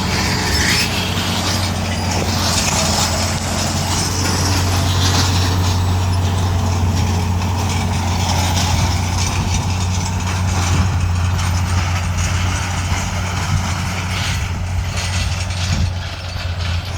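Tractor engine running steadily under load while pulling a disc harrow: a constant low drone with mechanical rattle over it.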